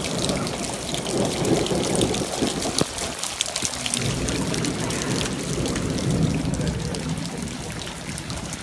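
Floodwater pouring and trickling, with many small splashes and drips.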